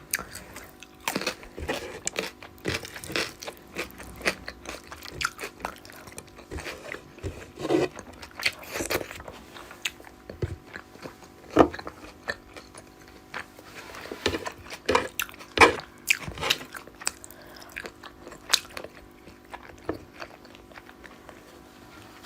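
A person chewing and crunching food close to the microphone, with irregular bites and mouth clicks.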